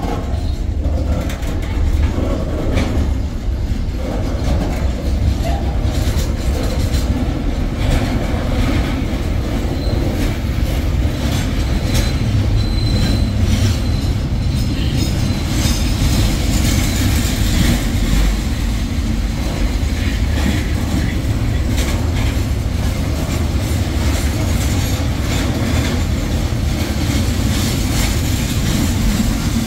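Container-laden flat wagons of a freight train rolling past close by: a steady rumble of steel wheels on rail with rapid clicks and clanks over the rail joints. A short high wheel squeal comes about twelve seconds in.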